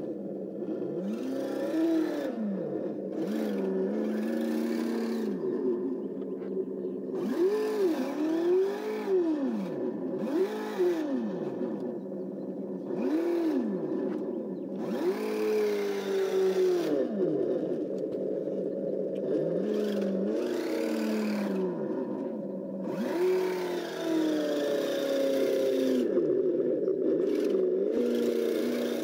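Engine-sound simulator in a 1/12 Kyosho Blizzard DX RC snowcat, playing an engine sound through the model's speaker. It revs up and drops back again and again, about a dozen times, over a steady running hum.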